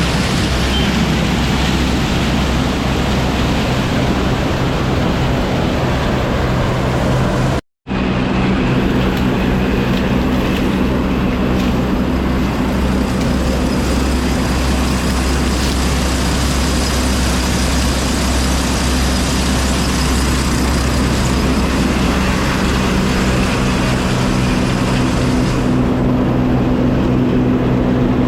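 Combine harvester running loud and steady, a constant engine drone with mechanical clatter over it; the sound cuts out for an instant about eight seconds in.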